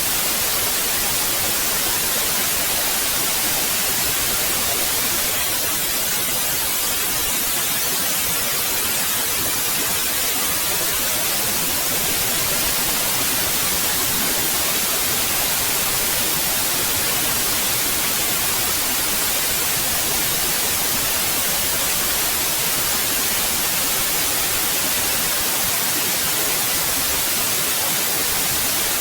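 Synthetic white noise: a steady, even hiss, brightest in the high end, with no change or events.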